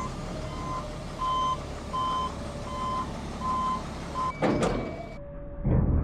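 Truck backup alarm beeping steadily, about one beep every three-quarters of a second, over the low rumble of the idling engine, as the auger truck backs up. Near the end there is a short burst of noise and then a thump.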